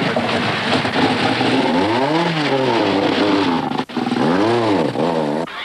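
Rally car engine revving hard, its pitch climbing and falling twice as it accelerates and lifts. There are abrupt breaks about four seconds in and near the end, where the sound cuts between shots.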